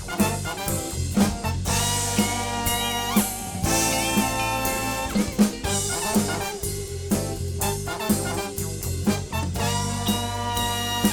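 Live band playing an instrumental passage with a steady drum beat and held horn lines.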